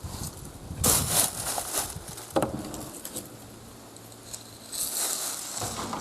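Footsteps stepping in over a threshold onto wooden boards, with irregular knocks, crunches and scuffs on debris, and a longer scraping shuffle near the end.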